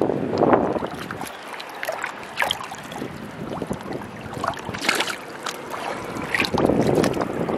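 Wind gusting on the microphone, strongest at the start and again near the end, over seawater sloshing and splashing among rocks with short sharp splashes in between.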